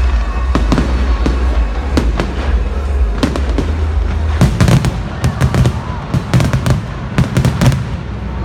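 Fireworks going off: scattered sharp bangs and crackles, then a dense rapid run of bursts from about halfway through until near the end, over a steady low rumble. Music plays underneath.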